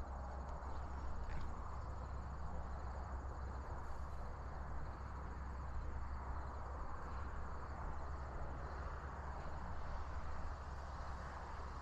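Quiet, steady outdoor background noise with a constant low rumble and no distinct event.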